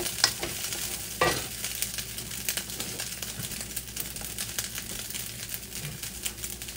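Fried rice with egg sizzling and crackling in a hot wok. A wooden spatula knocks and scrapes against the wok a couple of times in the first second and a half, then the rice sizzles on its own.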